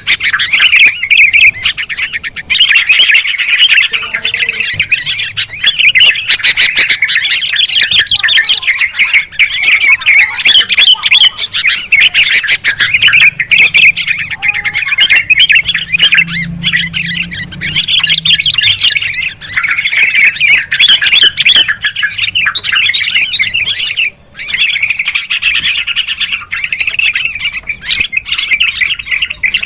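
Bulbuls chattering: a dense, continuous stream of harsh, excited calls with no let-up, the agitated flock chatter used as a lure call to draw bulbuls in.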